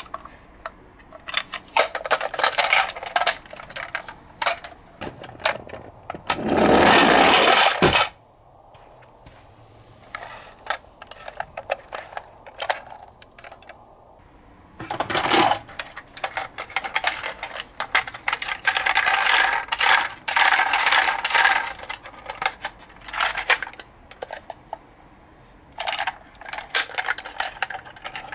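Hands handling a toy garbage truck and a cardboard box: quick clicks, taps and clatter of plastic on cardboard. A loud noisy rasp lasts about a second and a half from about six seconds in, and a shorter one comes about fifteen seconds in.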